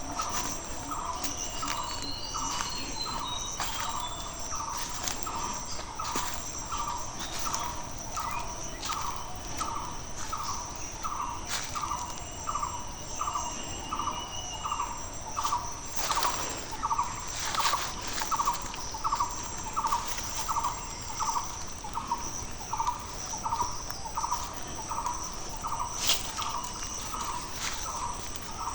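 A bird repeating a short, low note over and over, a little more than once a second, over a steady high insect trill, with a few other birds chirping.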